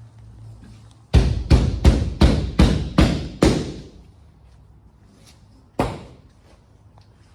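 Seven sharp knocks in quick succession, about three a second, each ringing briefly. A single knock follows a couple of seconds later.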